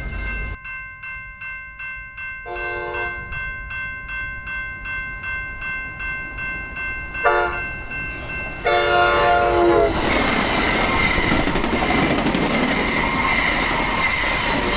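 Railroad crossing bell ringing at about two strokes a second while an approaching train sounds its horn: a blast about two and a half seconds in, a short one near seven seconds, and a longer one ending about ten seconds in. Then the train runs through the crossing with loud rolling wheel-on-rail noise, the bell still ringing under it.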